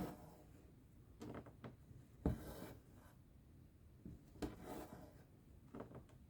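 Cross-stitch needle and thread pulled through fabric, a series of short rasps a second or two apart.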